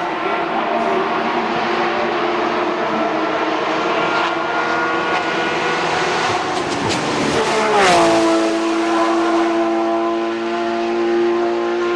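Racing car engine running hard at high revs on a hill-climb course. About eight seconds in its pitch drops as it passes close by, and it then holds a steady high note as it pulls away.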